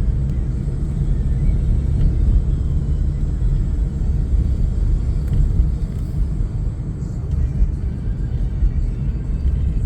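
Steady low rumble of a car in motion, road and engine noise heard from inside the vehicle.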